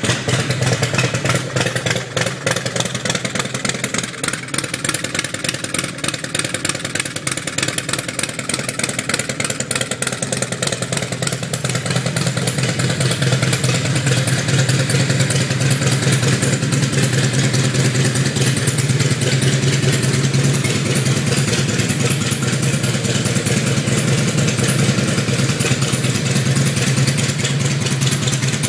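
Harley-Davidson Road King Classic's air-cooled Twin Cam 88 V-twin idling steadily just after being started, with a light mechanical clatter over the low exhaust note; it gets a little louder about twelve seconds in. The motor sounds great and runs great.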